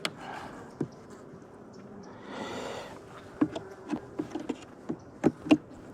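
Honeybees buzzing at the opened hive, with a series of sharp clicks and cracks, mostly in the second half, as frames glued down with propolis are pried loose.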